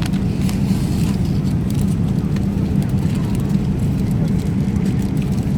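Steady low roar inside a jet airliner's passenger cabin in flight: engine and airflow noise, constant in level and pitch.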